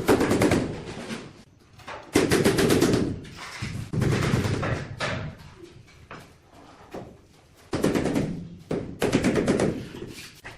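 Fast rattling knocks in about five bursts of roughly a second each, as a ceramic floor tile is bedded down.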